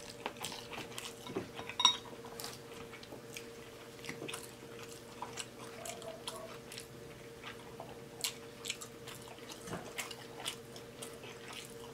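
A person chewing a mouthful of black bean noodles close to the microphone: scattered wet mouth clicks and smacks over a faint steady hum.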